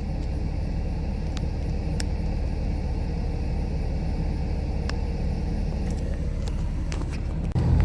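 Car being driven, heard from inside the cabin: a steady low rumble of engine and road noise, growing louder and rougher near the end.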